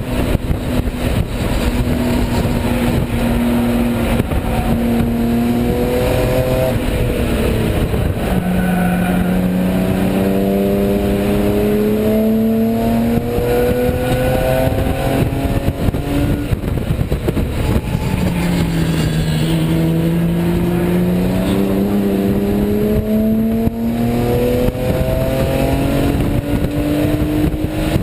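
BMW E36 race car's engine heard from inside the stripped cabin under hard acceleration, its pitch climbing slowly and steadily, with two sudden drops at upshifts about eight and eighteen seconds in. Road and wind noise rush underneath.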